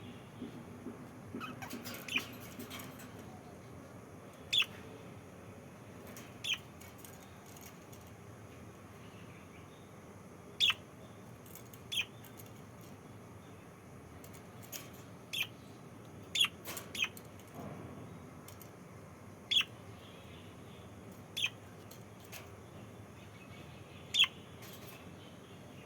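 Pet lovebirds giving short, sharp, high-pitched chirps, about a dozen single calls spaced one to three seconds apart, over a steady low hiss.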